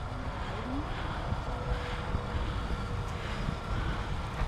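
Electric motor and drivetrain of a Redcat Scout II Gen8 V2 RC crawler, running steadily with a faint whine as it crawls over dirt and rocks, with wind noise on the microphone.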